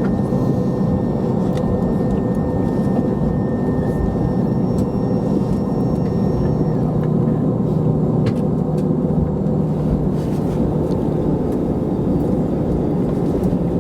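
Steady cabin rumble and hum inside an Airbus A321 on the ground before takeoff, with occasional small clicks and rattles from the cabin.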